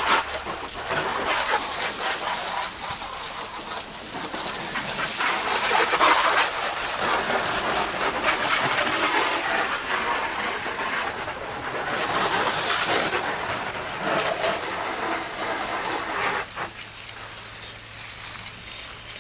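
Water spraying onto a car during a wash, a steady hiss that swells and fades as the spray moves over the panels.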